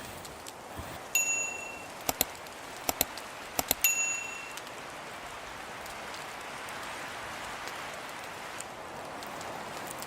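Two short metallic rings, about a second in and near four seconds, with a few sharp clicks between them, over a steady hiss.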